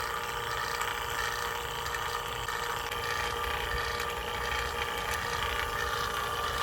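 HVAC vacuum pump running with a steady hum while evacuating a mini-split line set.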